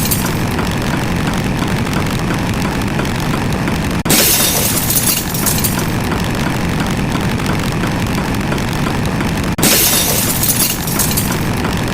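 Sound effects: a sudden crash twice, about five and a half seconds apart, each followed by a bright hiss lasting a second or so, over a dense steady rumble.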